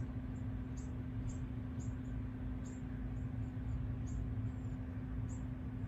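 A small bird chirping: short, high chirps repeated irregularly, about one or two a second, over a steady low hum.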